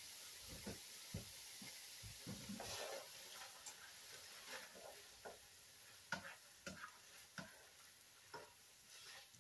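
A spoon stirring food in a skillet on the heat: soft irregular scrapes and taps against the pan over a faint sizzle.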